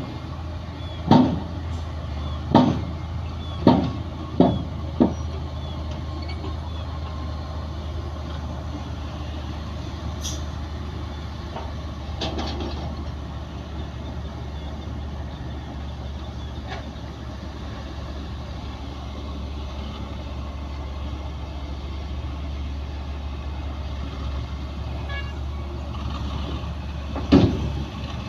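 Heavy diesel earthmoving machinery running steadily with a low drone, punctuated by sharp bangs: five in the first five seconds and one more near the end.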